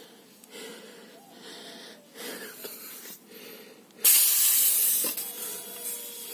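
High-pressure air rushing out of a PCP fill hose as its bleed screw is opened: a sudden loud hiss about four seconds in that fades over the next second or two, venting the line so the fill nipple will pull off. Before it, faint handling noises.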